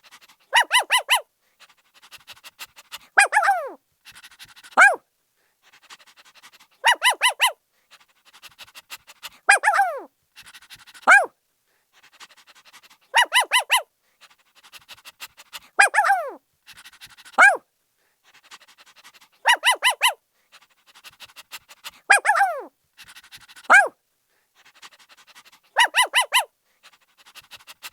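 Puppy barking in short, high yips: a quick run of three, then a yip that falls in pitch, then a single one. The same pattern repeats about every six seconds.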